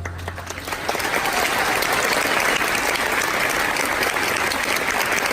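Audience applauding at the end of a live pop song, the music's last low note fading out in the first half second before the clapping fills in.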